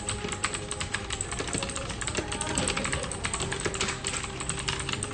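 Computer keyboard being typed on fast and without a break: a dense, uneven stream of key clicks.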